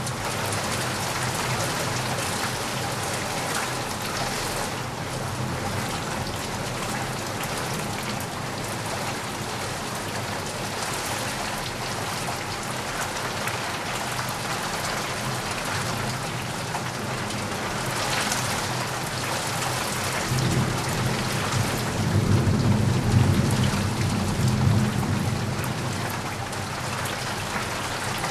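Steady heavy rain falling on a surface, with a low rumble of thunder swelling and fading about two-thirds of the way through.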